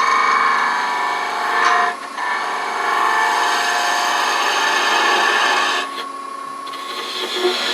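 A wood lathe running while a turning tool cuts into the spinning wood, a steady scraping hiss over the lathe's motor hum. The cutting breaks off briefly about two seconds in and again about six seconds in.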